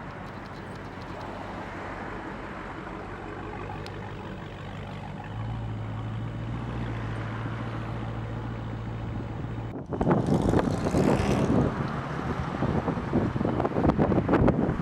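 Motor vehicle sound: a steady running hum, joined by a low steady tone about five seconds in. After an abrupt change near ten seconds comes louder, gusty noise like wind buffeting the microphone.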